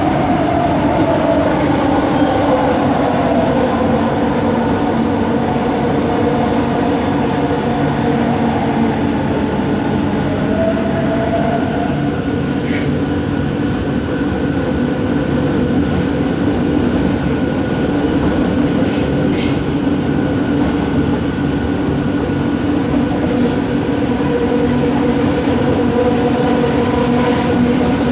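Bombardier Innovia ART 200 metro train running, its motor whine over steady rolling noise. The motor tones fall in pitch over the first few seconds, a short rising tone comes about ten seconds in, and several steady tones hold after that. The motor noise is an unusual one for this train.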